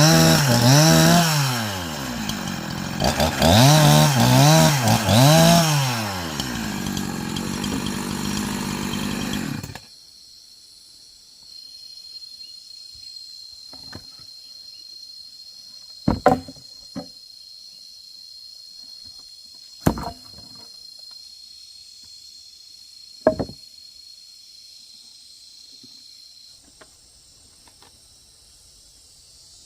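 Chainsaw engine revved up and let back down twice, then running until it cuts off about ten seconds in. After that a few sharp knocks and a steady high-pitched buzz.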